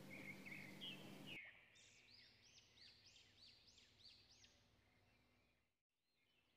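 Near silence with faint bird chirps in the background: a quick series of short arching calls for about three seconds, starting about two seconds in.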